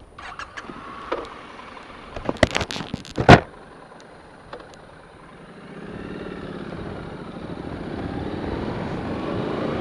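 Triumph Street Scrambler's 900cc parallel-twin engine running quietly at low revs, with a handful of sharp knocks two to three seconds in, the loudest just after three seconds. From about six seconds in the engine pulls away and grows louder, its pitch rising as the bike accelerates.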